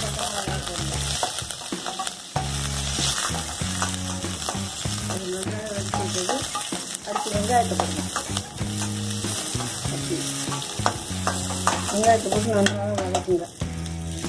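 Curry leaves, small onions and green chilli sizzling in hot oil in a stainless-steel kadai, stirred with a metal slotted spoon that scrapes against the pan.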